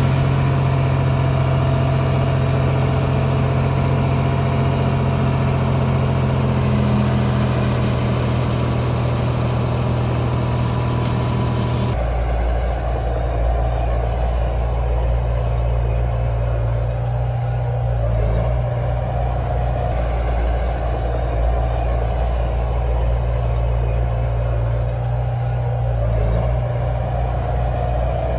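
Heavy diesel engine of earthmoving machinery running steadily at a low, even speed. The engine note changes abruptly about twelve seconds in, as at a cut to another take.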